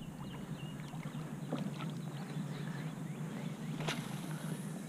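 Quiet open-air ambience on the water from a kayak: a low steady wash of wind and water, small birds chirping faintly, and one sharp knock about four seconds in.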